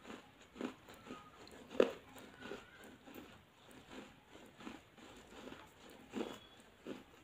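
Close-miked biting and chewing of something hard and crunchy in the mouth: irregular crunches about every half second to second, the loudest a little under two seconds in.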